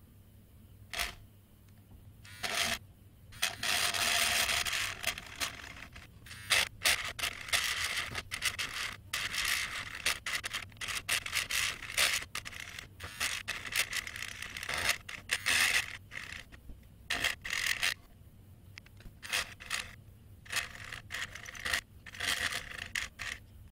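Homemade mini drill, a small DC motor with a bit, boring into plywood: a scraping, rasping drilling noise in stop-start bursts with short pauses between them.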